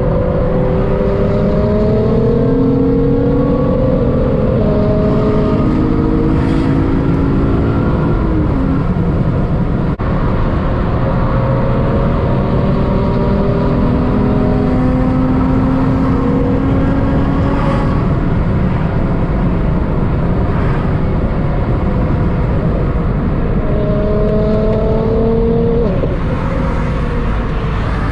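Car engine accelerating through the gears, its pitch climbing and then dropping at each upshift, several times, over heavy road and wind noise.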